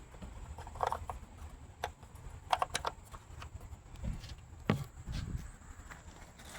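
Scattered light clicks and knocks as the oil filler cap is put back on and things are handled around the engine bay, with a couple of dull thumps about four and five seconds in.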